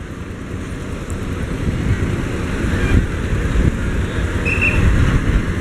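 Low rumble of road vehicles that slowly grows louder, with a brief high-pitched beep about four and a half seconds in.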